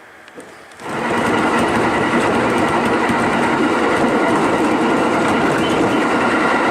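Train running at speed, heard from inside the carriage: a loud, steady rumble with a held whine, starting abruptly about a second in and cutting off sharply at the end.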